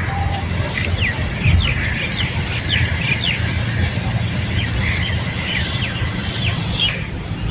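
Small birds chirping over and over in short, quick falling notes, with a steady low rumble underneath.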